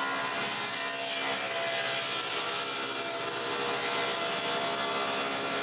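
Power saw ripping a board lengthwise: a steady cutting noise with the motor's hum underneath, even in level throughout.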